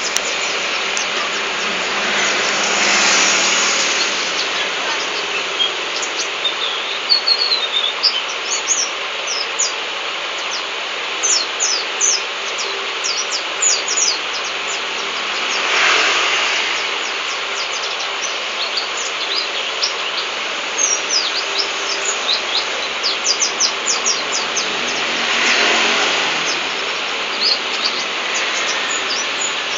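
Pleci (white-eye) singing in rapid, high, thin chirps, scattered through the whole stretch. Traffic noise swells up three times as vehicles pass.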